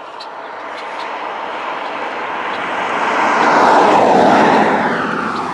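A car driving past close by, its tyre and engine noise swelling to a peak about four seconds in, then dropping in pitch and fading as it goes by.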